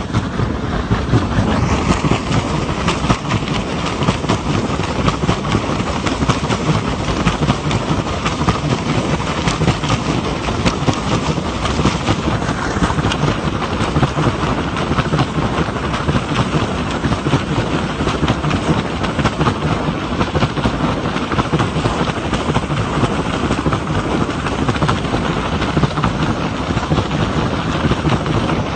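Helicopter running: a steady, loud rotor and engine noise with a rapid chopping beat.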